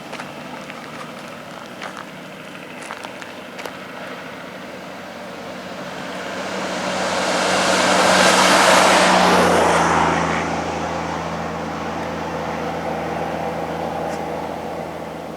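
A heavy truck passing close by on the highway. Its tyre and engine noise builds to a peak about nine seconds in, and its engine note drops in pitch as it goes by. A steady engine drone carries on afterwards.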